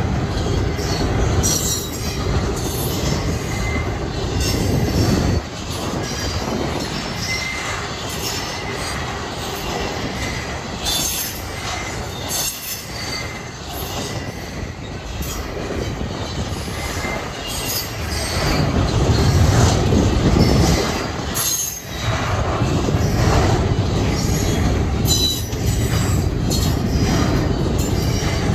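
Double-stack intermodal well cars of a freight train rolling past at close range: a continuous low rumble with irregular clacks of wheels over the rail, and a faint high wheel squeal at times. The rumble swells for a few seconds past the middle.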